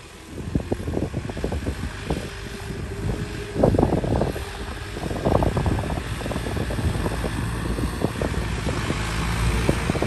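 Tractor engine running, with wind buffeting the microphone.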